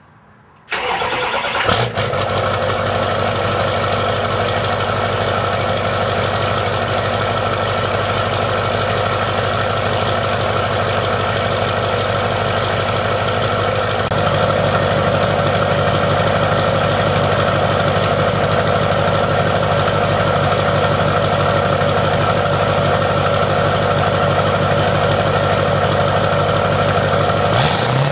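2003 Duramax 6.6-litre V8 turbodiesel cranking and firing up, then idling steadily through a 5-inch exhaust.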